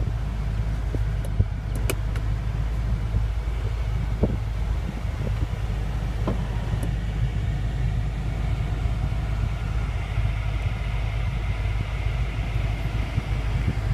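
Steady low hum of a car idling, with a few light clicks.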